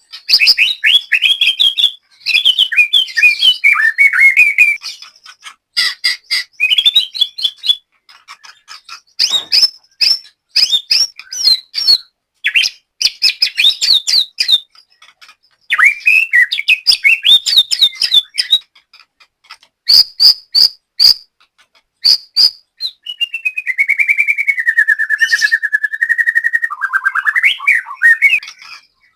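White-rumped shama singing loudly in varied bursts of rapid whistled and chirped phrases with short pauses, then a long buzzy trill about two thirds of the way through.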